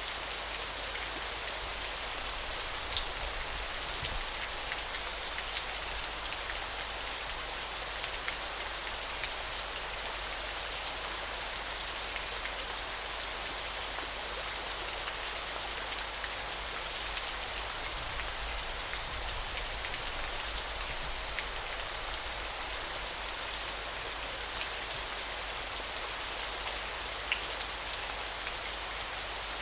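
River water flowing steadily as an even rushing hiss. A thin, very high steady whine comes and goes in spells of about a second over the first half, and a louder high buzzing sets in near the end.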